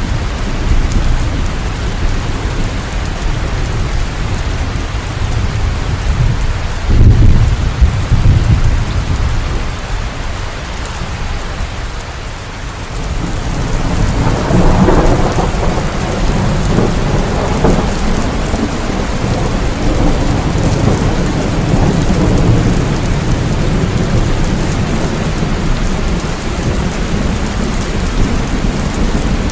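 Steady rain with thunder rolling through it. There is a loud low boom about a quarter of the way in, a brief lull, and then a long rumble that swells up from about halfway and slowly fades.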